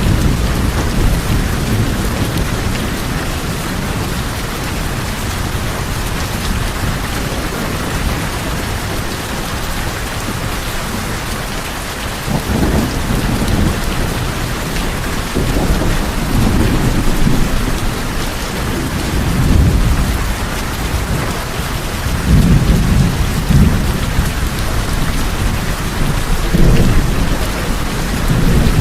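Steady heavy rain on tin roofs, with thunder rumbling low in repeated swells, more often in the second half.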